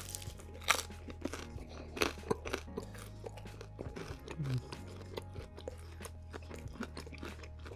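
A person biting and chewing pizza, with irregular crisp crunches.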